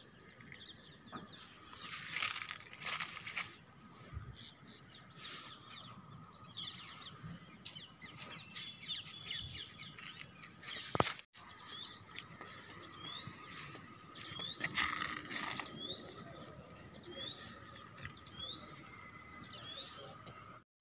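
Several birds chirping and calling, with one bird repeating a short hooked, sweeping call in quick succession in the second half, over a faint steady high-pitched tone.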